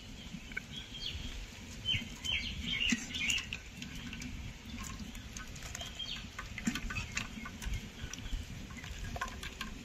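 Small birds chirping in short bursts, thickest from about a second in to past the three-second mark, over a low background rumble with a few faint clicks.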